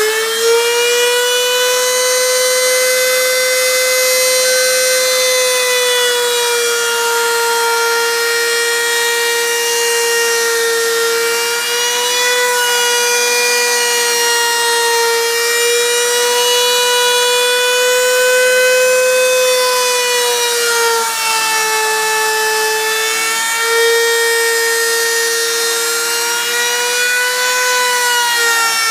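A high-speed power tool spinning a solid carbide router bit, milling a rough aluminium casting: a loud, steady high-pitched whine that has just spun up, its pitch sagging a little about 21 seconds in before recovering.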